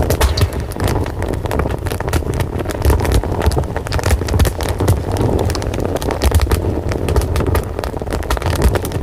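Fire crackling, with many sharp pops and snaps coming at an uneven pace over a steady low rumble of flames.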